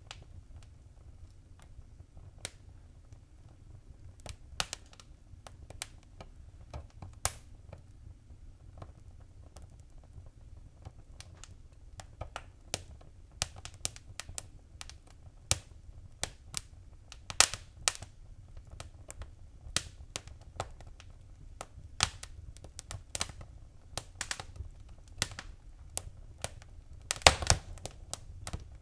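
Fire crackling in a fireplace: irregular sharp pops and snaps over a low steady rumble, growing busier as it goes, with the loudest clusters of snaps about two-thirds of the way through and near the end.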